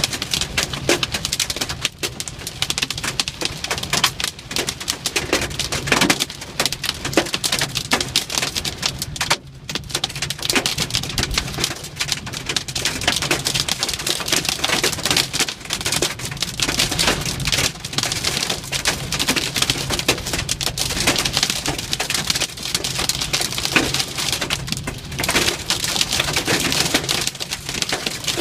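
Heavy hail with rain pelting down, a loud, dense clatter of countless hailstones striking hard surfaces.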